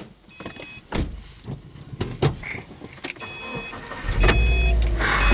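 Inside a car: scattered knocks and clicks, a short chime repeating on and off, then about four seconds in a loud, steady low rumble sets in as the engine starts and runs.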